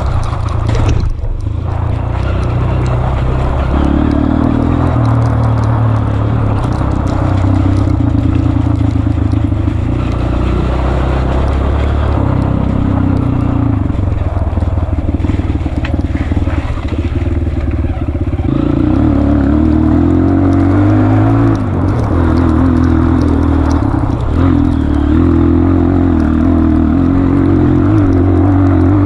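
Honda CRF230F trail bike's single-cylinder four-stroke engine running under load, its pitch rising and falling as the throttle is worked and gears change.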